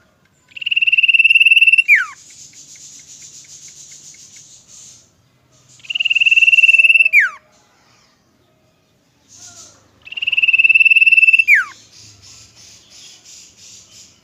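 Common iora singing: three long, level whistles, each about a second and a half and each ending in a sharp downward slide. Fast, high buzzing trills fill the gaps between them.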